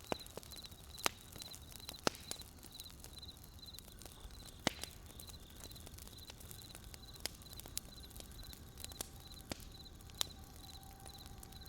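Wood campfire crackling, with sharp irregular pops of burning firewood. Crickets chirp steadily about twice a second behind it.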